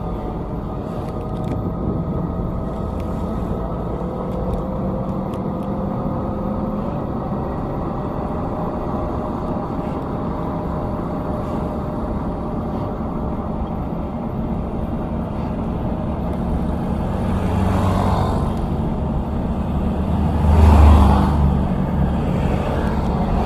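A motor vehicle's engine running steadily with road noise, its pitch drifting slowly. Two louder swells come near the end, the second and loudest about three seconds before the end, like vehicles passing close by.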